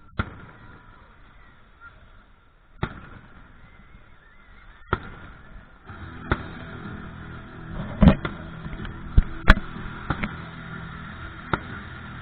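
Fireworks exploding in a series of sharp bangs, sparse at first and then louder and quicker from about halfway, with the loudest reports near the end.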